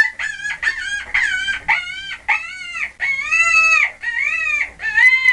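An animal calling in a rapid series of short, high, arching cries, about two a second.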